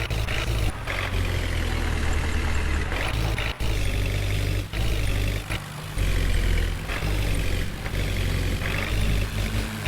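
Heavy diesel engine of a tractor or backhoe loader running steadily with a low hum.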